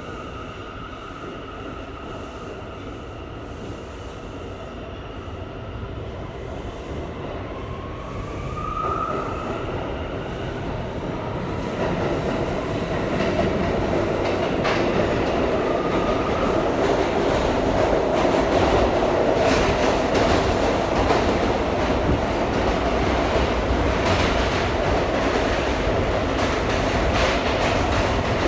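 R179 subway car running through the tunnel, heard from inside the car: a steady motor whine at first with a short rising whine about nine seconds in, then from about twelve seconds in a louder rumble of the wheels with rapid clicking over rail joints and some wheel squeal.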